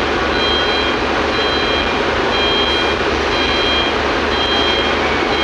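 Backup alarm on heavy mining equipment beeping about once a second, over the steady running of a diesel engine.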